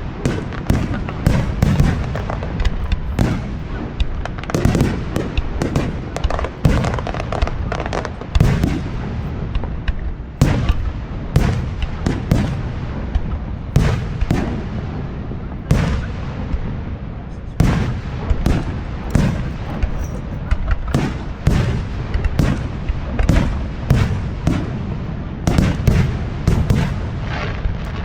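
Aerial fireworks shells bursting in quick succession: a continuous run of sharp booms and crackles, often one or two a second, over a steady low rumble.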